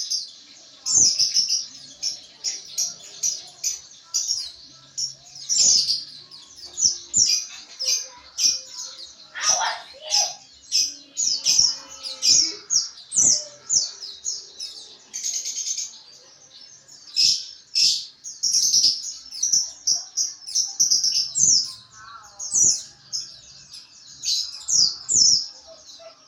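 Pleci (white-eye) twittering: quick runs of short, high chirping notes, the chattering 'ngriwik' song, repeated over and over with brief gaps.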